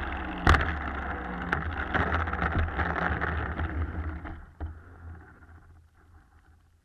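Wind buffeting the microphone with a deep rumble, under the whine of the RC FunCub model plane's electric motor, its pitch gliding slowly, with a few knocks early on. The sound fades away from about four and a half seconds in.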